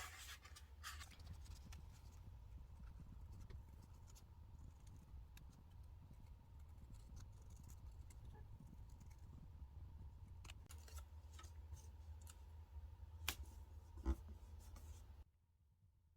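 Faint desk sounds of stationery work: soft paper scratching and handling with scattered small clicks, a couple of sharper ticks near the end, over a steady low hum. It all cuts off abruptly about a second before the end.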